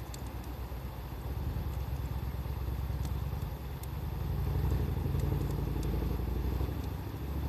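A vehicle engine rumbling low, growing louder about halfway through, over faint scattered pops and crackles of a wood fire.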